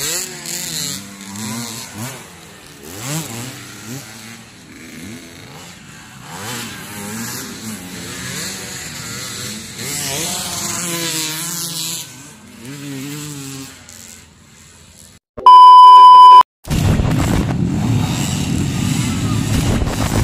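Motocross dirt bike engines revving up and down, several at once, their pitch rising and falling. About three-quarters of the way through, a very loud steady beep lasts about a second. After it comes a loud, rough low rumble.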